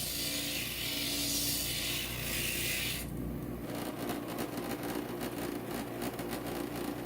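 Inland stained glass grinder's motor running steadily while a piece of stained glass is pressed against the spinning bit, its edge being ground with a gritty scraping. About three seconds in, the scraping changes to a rapid, rougher chatter as the glass is worked at a different spot.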